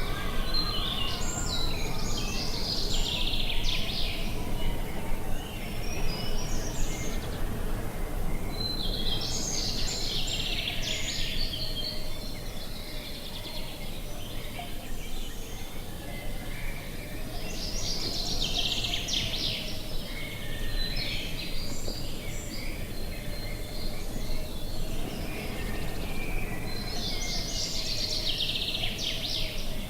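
Birds singing in four bursts of chirping, about nine seconds apart, over a steady rush of wind.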